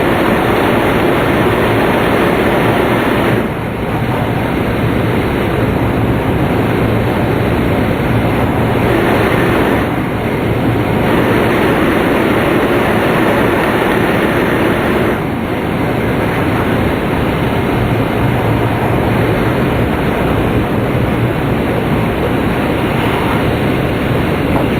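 Steady running noise heard inside the passenger cabin of a Tohoku Shinkansen Hayate train at speed: a dense rushing rumble of wheels and air, dipping briefly in level a few times.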